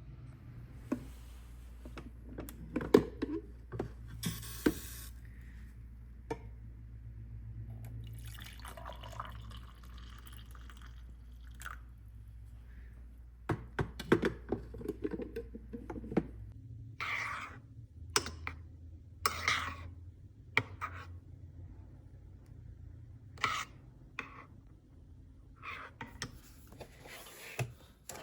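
Household handling sounds in a small room: scattered light clicks and knocks with short stretches of running or pouring water, over a low steady hum.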